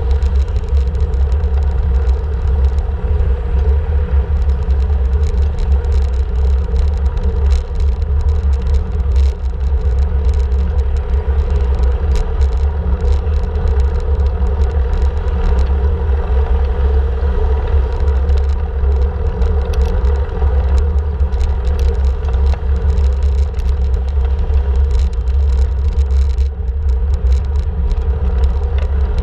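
Steady, loud low rumble of a bike ride on city roads, with many scattered clicks and rattles.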